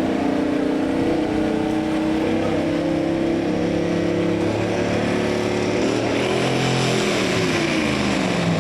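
Diesel engine of a pulling vehicle running hard under load, its pitch holding steady, wavering, then dropping near the end as it comes off the throttle.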